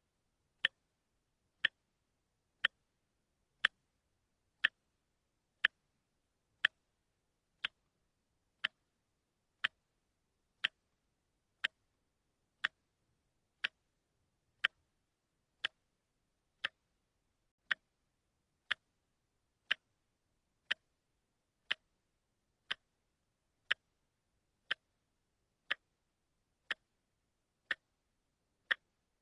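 Watch ticking once a second: sharp, even clicks with silence between them.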